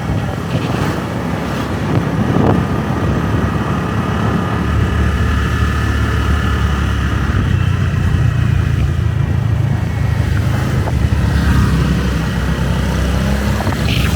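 Motorbike engine running steadily while under way.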